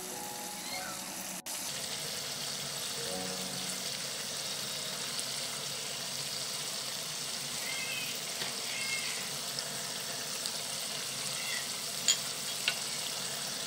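Prawn and tomato curry sizzling steadily in a non-stick pan. Two sharp clicks come near the end.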